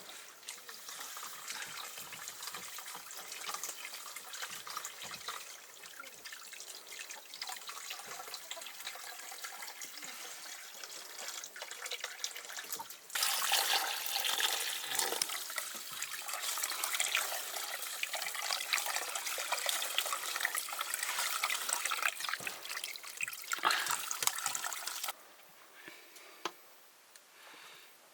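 Water running and splashing, as when food is washed under a stream of water. It gets suddenly louder about halfway through and stops abruptly near the end.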